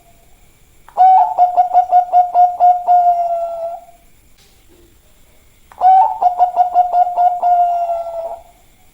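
Bangkok-strain zebra dove (perkutut) cooing: two phrases of rapid staccato coos, each about three seconds long, with a pause of about two seconds between them.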